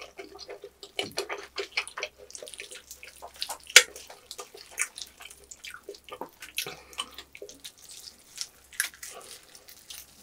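Close-up wet chewing and lip smacking on roast pork knuckle, a dense run of short sticky clicks with one louder click about four seconds in.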